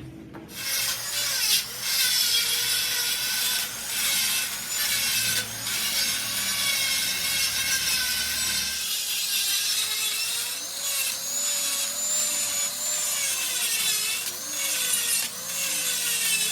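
Abrasive power tool grinding metal, a steady harsh hiss whose motor pitch wavers up and down as the load changes, with brief dips every second or so as the tool is eased off and pressed back on.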